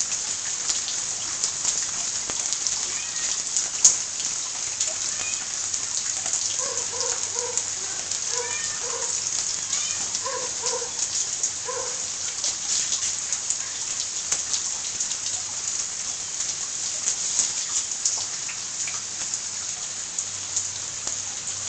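Steady rain falling, a constant hiss full of small drop ticks. Around the middle comes a string of short pitched calls, mostly in pairs.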